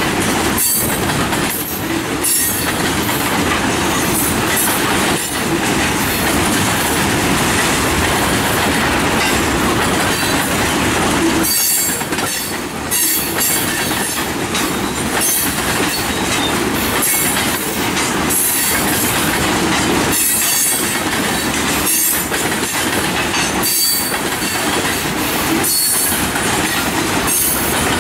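Freight train passing at close range over a grade crossing: a loud, steady rumble and rush of steel wheels on the rails. High-pitched wheel squeal and clatter come and go throughout.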